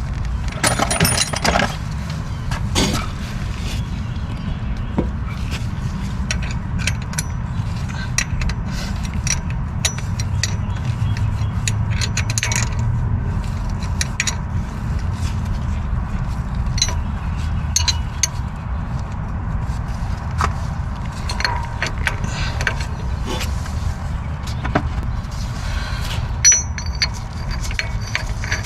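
Hand tools clinking, tapping and scraping on metal engine parts, in short irregular bursts over a steady low rumble.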